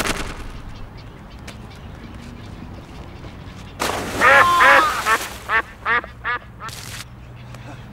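Ducks quacking: a loud flurry of quacks about four seconds in, then three short single quacks.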